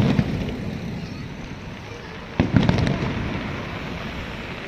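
Aerial fireworks shells bursting: a boom fading at the start, then a sudden boom about two and a half seconds in with a few sharp cracks, its low rumble slowly dying away.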